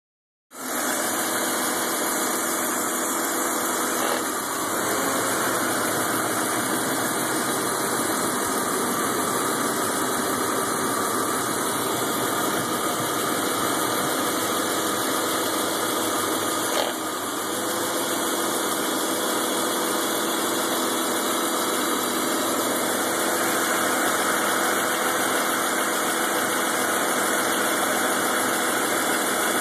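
2000 BMW 528i's 2.8-litre straight-six idling roughly and steadily. The owner says the rough idle is worst just after starting and fades as the engine warms, with the check-engine light on, and suspects a vacuum leak, an ignition coil, an O2 sensor or the CCV or ICV valves.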